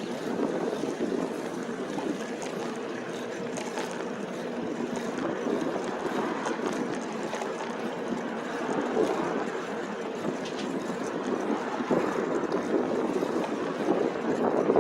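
Wind rushing over a handlebar-mounted phone's microphone on a moving e-bike, a steady noise that rises and falls with gusts.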